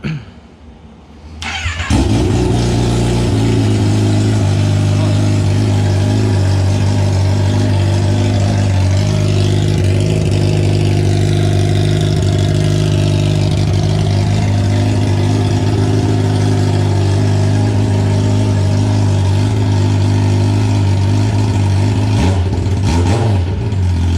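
Kawasaki ZX-10R inline-four engine running on open headers with no exhaust or muffler fitted. It cranks and catches about a second and a half in, then idles loud and steady.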